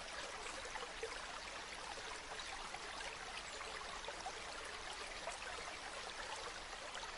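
Running water: a steady, unbroken rush of a stream or waterfall, with fine splashing throughout.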